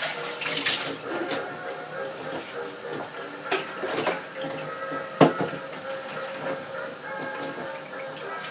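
Brief splashing of water, then several sharp knocks and clinks, the loudest about five seconds in, as the metal parts of a hand-crank coffee grinder are handled in a sink while being washed.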